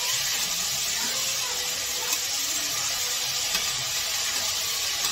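Boiled chickpeas and tomato-spice masala sizzling in a kadhai as they are stirred with a metal spatula: a steady frying hiss with a few faint scrapes.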